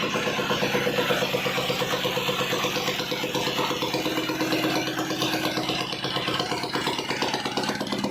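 Royal Enfield Bullet Standard 350's single-cylinder four-stroke engine idling with a steady, even beat.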